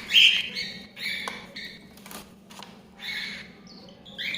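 Cockatiel chicks giving short, raspy, high begging calls, repeated several times, while being hand-fed from a syringe.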